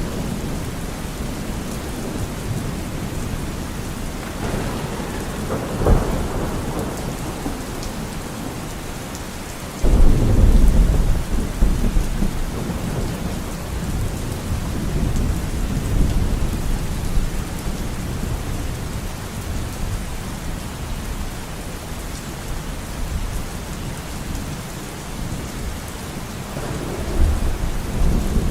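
Steady heavy rain falling, with thunder: a sharp crack about six seconds in, then a loud low rumble that starts suddenly about ten seconds in and slowly fades, and another rumble building near the end.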